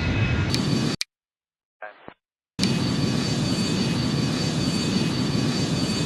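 Steady jet airliner engine noise with a thin high whine. It cuts out abruptly about a second in, leaves a gap of silence with one faint short sound, then comes back at full level with a higher whine.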